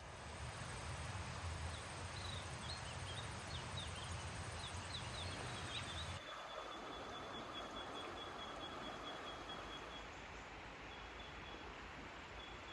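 Bush ambience: scattered short bird chirps and a high insect trill over a low wind-like rumble. About six seconds in, the sound changes abruptly to a quieter scene with a steady high insect or bird tone.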